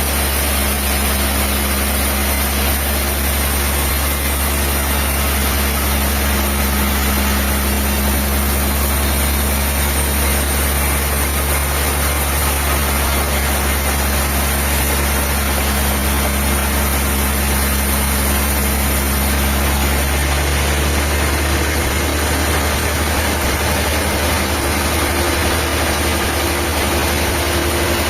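A diesel engine running steadily at a constant speed; the pitch of its hum shifts about twenty seconds in.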